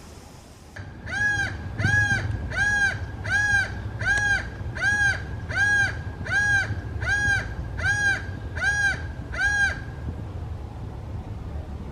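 A bird calling: a series of about eleven evenly spaced harsh, rising-and-falling calls, roughly one and a half a second, stopping about two seconds before the end.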